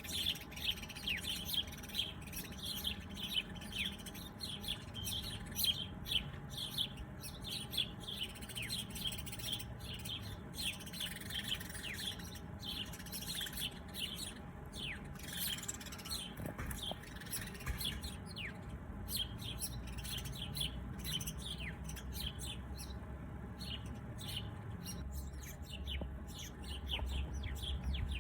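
Many small birds chirping: a dense chatter of short, high chirps, many of them quick downward sweeps, thinning out past the middle. A low rumble comes up near the end.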